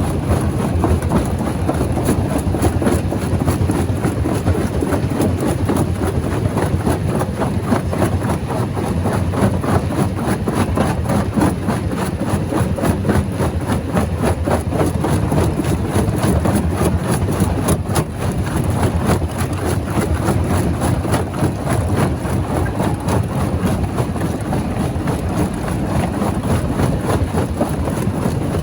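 Rock crusher running and crushing stone: a loud, steady, dense rumble with many small knocks and cracks running through it.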